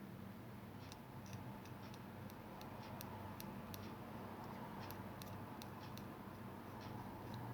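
Scattered light clicks, irregular and a few per second, thickest in the middle, over a steady low electrical hum.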